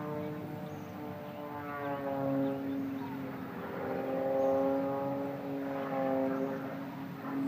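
Propeller airplane engine droning at a steady pitch, growing louder and fading several times as it passes.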